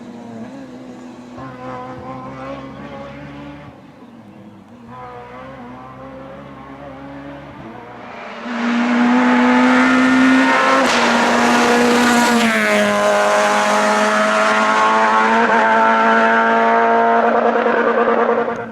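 Naturally aspirated Group F2000 rally car engine: for the first eight seconds a car is heard at a distance, revs rising and falling. Then a car comes in loud at high revs, its pitch dropping once about twelve seconds in before it holds steady at full throttle.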